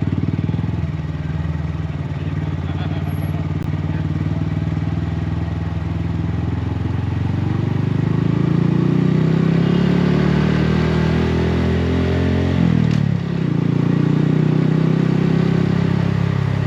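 2018 Honda Grom's single-cylinder 125 cc engine through a Yoshimura exhaust, heard while riding. It runs steadily, then its pitch climbs under acceleration for several seconds. About two-thirds of the way through the note drops sharply at an upshift and then settles into a steady, louder cruise.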